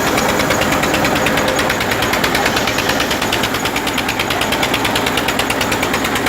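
Tractor diesel engine running steadily to drive a tractor-mounted atta chakki (stone flour mill), with a fast, even pulsing beat.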